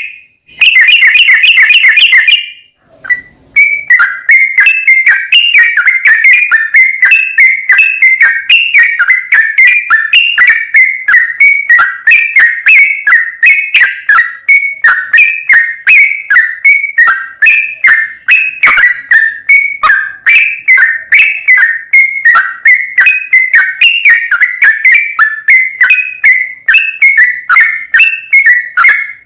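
Sooty-headed bulbul (trucuk) singing a long rapid run ('ropel'): short whistled chirps close together, several a second, hovering around one pitch without a break. The run is opened by a loud, harsh, distorted burst lasting about two seconds.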